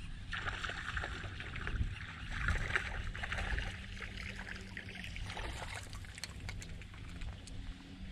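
Water sloshing and splashing in two spells in the first half, over a steady low rumble of wind, with scattered small clicks.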